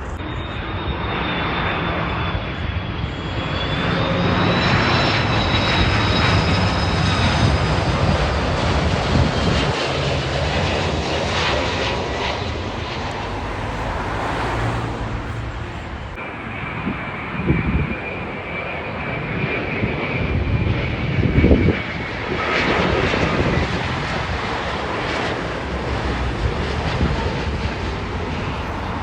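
Jet airliner on its landing approach passing overhead: a continuous rushing engine noise with high turbine whines that slide slowly in pitch, and two brief low bumps about two-thirds of the way through.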